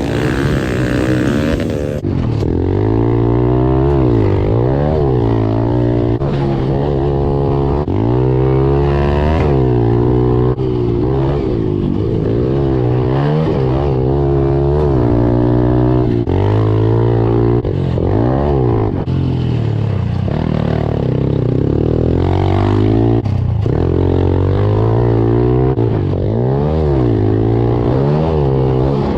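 Pit bike engine revving up and dropping back over and over as it is ridden hard around the track, the pitch climbing and falling every second or two.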